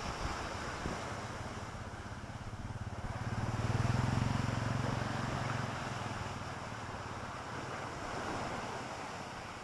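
Wind buffeting the microphone over waves washing on the Lake Victoria shore, with a low hum that swells and fades about four seconds in.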